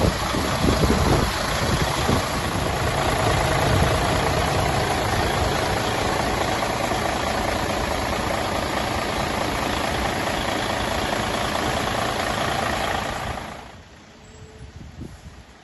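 Diesel engine of a Mercedes-Benz Actros 3235 tipper truck idling steadily. The sound falls away about thirteen seconds in.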